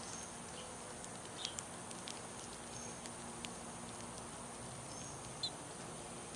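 Small birds feeding on a patio: two short high chirps, one about a second and a half in and a louder one near the end, with a few faint light ticks, over a steady high background drone.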